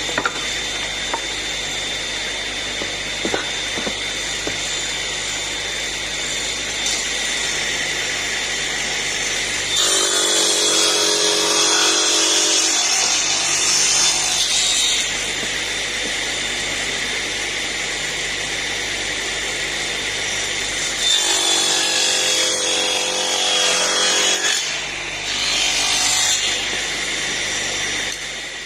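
Table saw running with a steady high whine, cutting through wood: the sound grows louder and fuller as the blade loads up, for about five seconds starting about ten seconds in, and again from about twenty-one seconds in.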